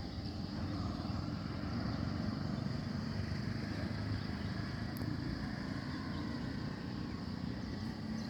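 Steady low outdoor rumble, with a faint, steady high-pitched hum above it.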